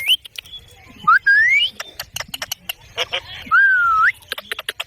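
Parrot whistling two long glides: one rising about a second in, and one that dips and then climbs near the end. Short sharp clicks are scattered between the glides.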